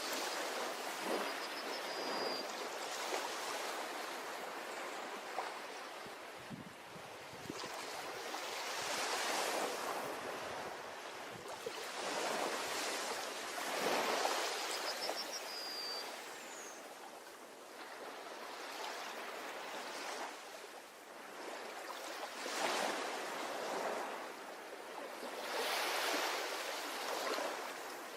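Ocean surf breaking on a beach, swelling and easing in irregular waves, with a few short, high chirps heard over it.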